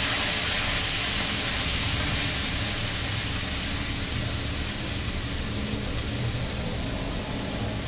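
Chopped vegetables sizzling in hot mustard oil in a steel kadhai as they are scraped in from a plate: a loud, steady frying hiss that slowly dies down.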